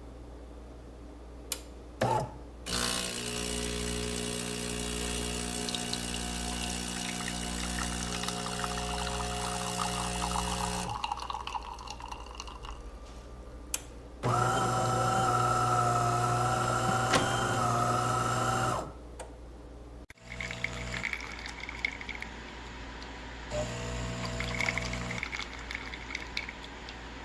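De'Longhi Dinamica automatic espresso machine running a brew cycle: a steady motor hum with a whine, a louder steady whine for about four seconds midway, then liquid pouring and trickling.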